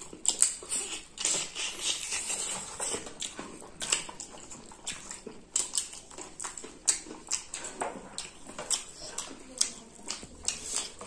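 Two people chewing and smacking their lips as they eat spicy chicken and rice with their hands: a steady run of short, irregular mouth smacks and clicks.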